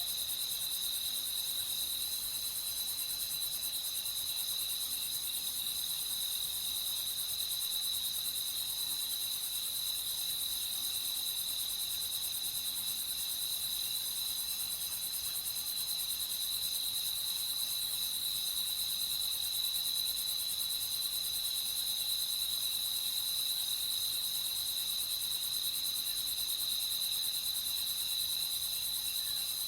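Dense chorus of crickets chirping steadily, a high continuous shrill that does not change.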